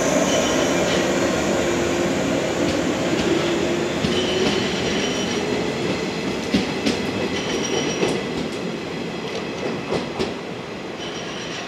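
Yellow electric commuter train, Okayama depot set D30, pulling out and running away: steady running noise with a motor hum, wheels clicking over rail joints a few times in the second half, and short stretches of high wheel squeal, fading as it recedes.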